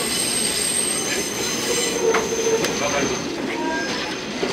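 Ametsuchi diesel railcar (rebuilt KiHa 47) heard from inside as it pulls out of a station: steady wheel-on-rail running noise with a thin high squeal from the wheels. A few sharp clicks come as the wheels cross rail joints and points.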